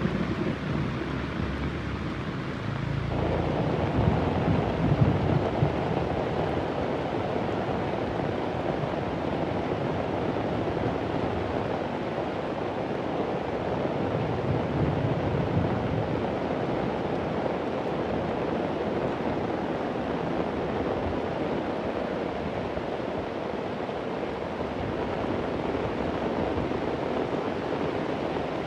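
Heavy rain falling steadily, with a low rumble of thunder a few seconds in.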